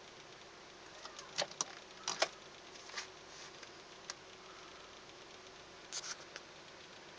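1998 Buick Regal's V6 running faintly, heard from inside the cabin, with a scattering of sharp clicks, several in quick pairs, in the first two-thirds.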